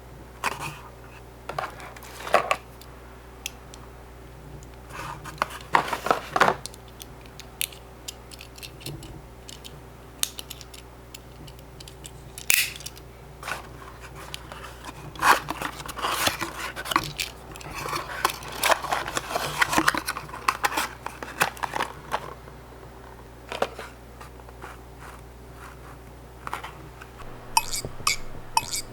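Die-cast Tomica minicars handled and put back into their small cardboard boxes: scattered clicks, taps and rustles of metal and card, busiest in the middle, with a quick run of small clicks near the end.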